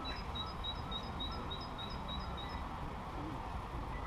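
A small songbird giving a quick run of about ten high, evenly spaced chirps, roughly four a second, that stops a little past halfway, over steady low background noise.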